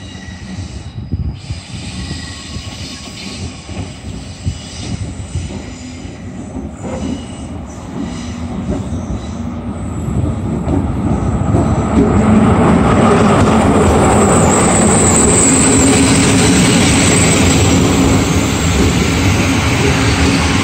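PKP Intercity SU160 diesel locomotive arriving with passenger coaches: its engine and rumble grow louder as it approaches. It is loudest from about halfway through as it and the coaches roll past, with a high squeal from the wheels partway through the pass.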